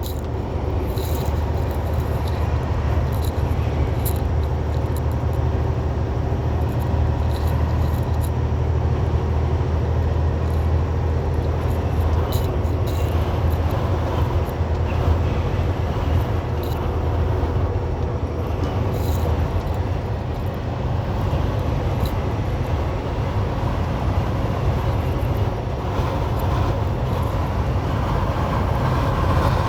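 Semi truck's diesel engine running steadily under way, with a low rumble and wind and road noise, heard from inside the cab.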